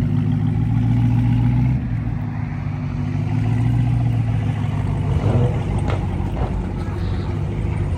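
Car engine running with a steady low drone, its pitch easing up and down slightly.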